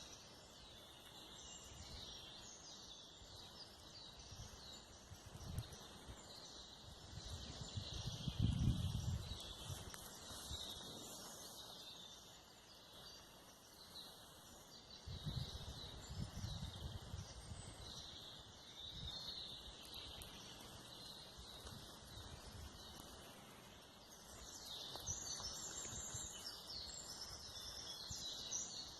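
Forest birds singing, many short chirps and trills throughout, busiest near the end. A few low rumbles come through as well, the loudest about eight seconds in.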